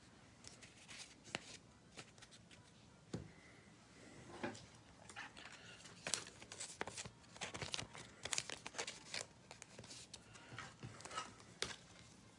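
Faint rustling and light clicks of trading cards and their plastic sleeves being handled and sorted, busiest about halfway through.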